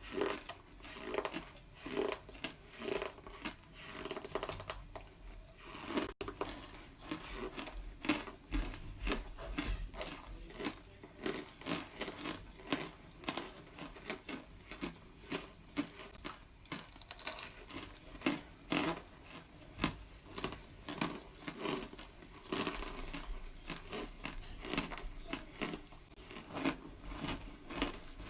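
Cornstarch chunks being bitten and chewed: a dense, irregular run of crisp crunches and crackles.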